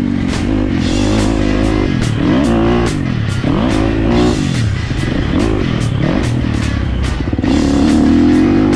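Dirt bike engine revving up and dropping back again and again, as when accelerating and shifting around a track. Music with a steady beat plays over it.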